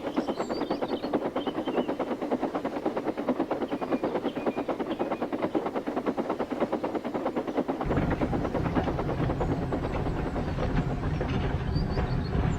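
Steam tank engine chuffing in a fast, steady rhythm, joined by a deeper rumble about eight seconds in. Birds chirp faintly near the start and the end.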